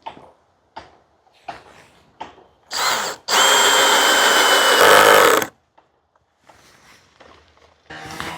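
Cordless power drill driving a screw while fastening a shed rafter: a short blip, then a steady run of about two seconds with a high motor whine. Light knocks and handling clicks come before it.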